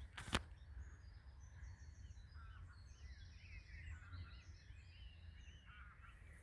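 Faint chorus of birds chirping and trilling, many short calls overlapping, over a low steady rumble of wind on the microphone. A single sharp click comes right at the start.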